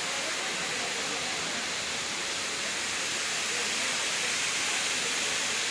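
Steady rushing noise of running water, like a waterfall or cascade, with no break or change.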